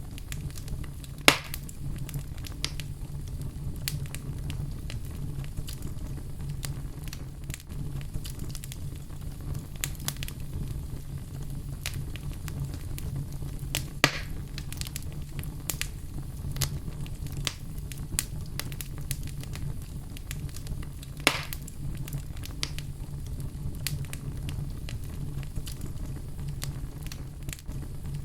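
Fire burning in a fireplace: a steady low rumble with constant small crackles, and three sharp louder pops, about a second in, around the middle, and about three-quarters through.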